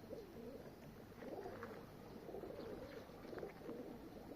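Domestic pigeons cooing: several faint, overlapping low coos that waver up and down in pitch.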